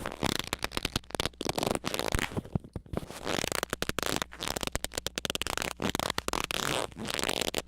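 A harsh, distorted stream of rapid crackles and clicks with faint squeaky gliding tones, jittering without a steady rhythm.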